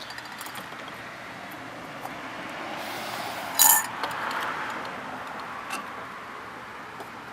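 Cut-open metal oil filter parts being handled: one sharp metallic clink with a short ring about three and a half seconds in, and a faint tap near six seconds, over a steady background hiss.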